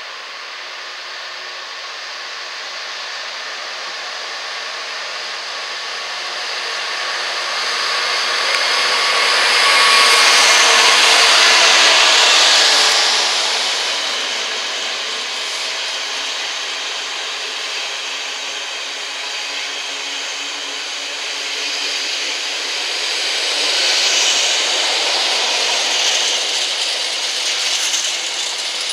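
A Freightliner Class 66 diesel locomotive (two-stroke V12) passes at speed hauling an intermodal container train. The sound is loudest as the locomotive goes by, about ten seconds in, then gives way to the steady rumble and clatter of loaded container wagons rolling past.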